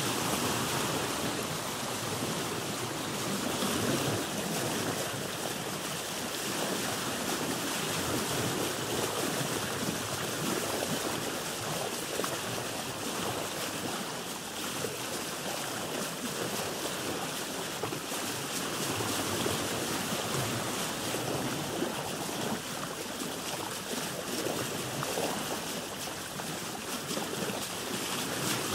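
Ocean waves and sea water splashing, heard from a boat: a steady wash of water that rises and falls gently in loudness.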